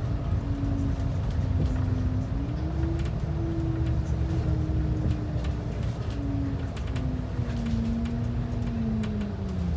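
Interior of a moving transit bus: steady low engine and road rumble, with a drivetrain whine that rises and falls in pitch as the bus speeds up and slows, sliding down near the end as it slows.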